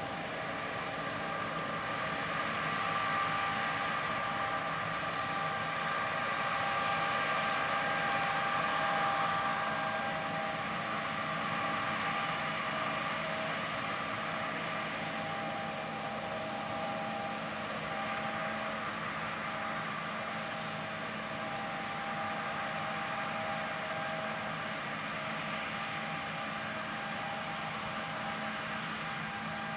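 John Deere S670 combine harvesters running steadily while cutting soybeans: a continuous machine drone with a few steady whining tones, swelling slightly a few seconds in and easing off again.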